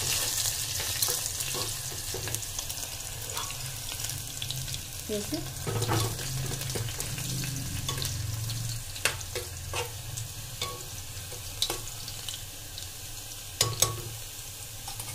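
Sliced onions sizzling in hot oil in a pressure cooker, stirred with a metal spoon that clinks and scrapes against the pot several times, most sharply near the end.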